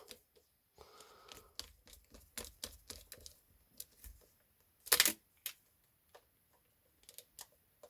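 Irregular small clicks and taps of a screw and screwdriver being worked into the plastic handle of a Dyson hairdryer to hold its metal filter down, with one louder click about five seconds in.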